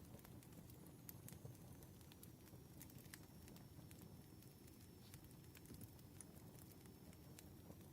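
Campfire burning quietly: a soft low rumble of flames with sparse, sharp crackles and pops from the wood.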